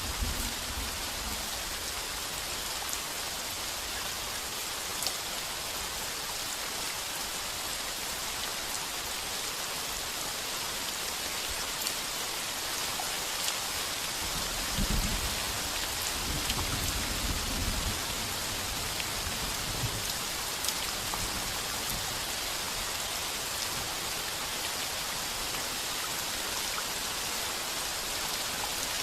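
Heavy rain falling on a tin roof: a steady hiss dotted with sharp drop ticks. About fifteen seconds in, a low rumble of thunder swells and dies away over a few seconds.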